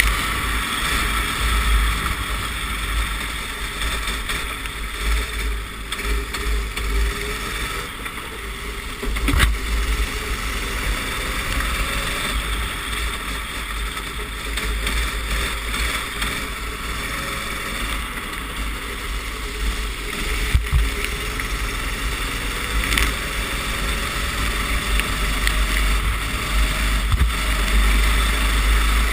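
Racing kart engine heard from an onboard camera, its pitch rising and falling through the laps, under a steady hiss and heavy low wind rumble on the microphone, with a couple of sharp knocks.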